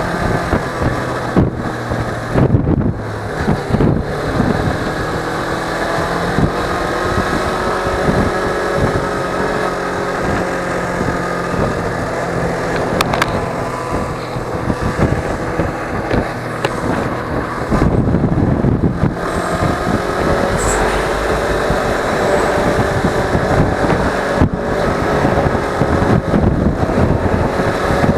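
Suzuki V-Strom 250 motorcycle's parallel-twin engine running under way, its note shifting up and down with the throttle, with wind noise buffeting the microphone.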